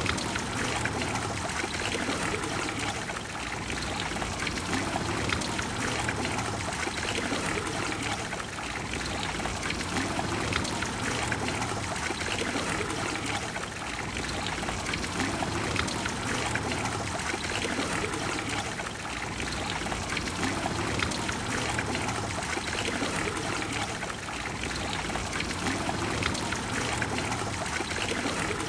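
Trevi Fountain's water cascading and splashing into its basin: a steady, dense rush of falling water that swells and eases gently every few seconds.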